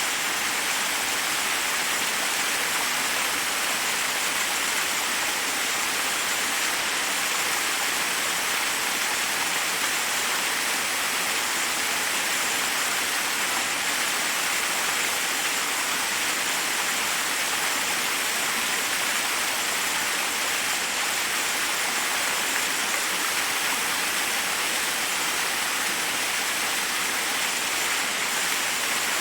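Forest waterfall: water rushing steadily over rocks, an even hiss with little low rumble.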